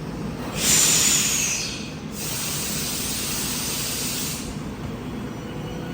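Two loud hisses of compressed air released from the train's pneumatic system as it prepares to depart, the first about half a second in and short with a faint falling whistle, the second longer and ending about four and a half seconds in, over a steady low rumble.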